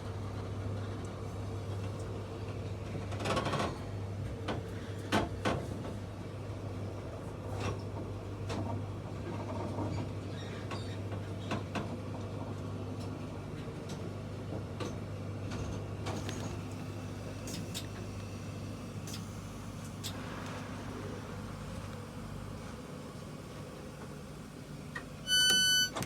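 Interior of a moving passenger train: a steady low hum with scattered knocks and rattles. Near the end come several short high electronic beeps.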